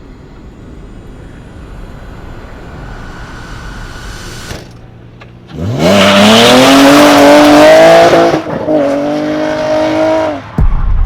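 Nissan 350Z V6 engine in a 240SX revving hard: a faint build-up over the first few seconds, then about halfway the engine sweeps up sharply and holds high revs with a loud hiss over it. It dips briefly, holds high again and cuts off abruptly just before the end.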